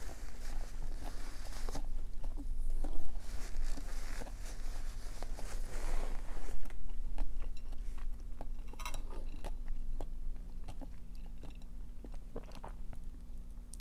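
Close-miked mouth chewing a large mouthful of food, with crunchy, wet bites and irregular crackles. The chewing is busiest and loudest in the first half and grows sparser and softer after about seven seconds.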